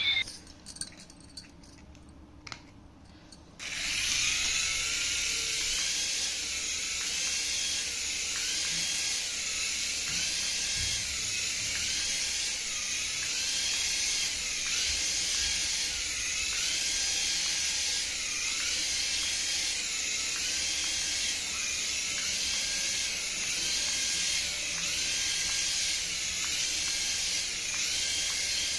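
A battery-powered toy whirring steadily with a hiss, after a few quiet clicks; it starts about four seconds in and carries a wavering tone that repeats about every second and a half.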